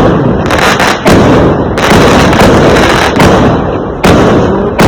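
Fireworks going off in quick succession: a dense crackle broken by about five loud bangs, roughly one a second.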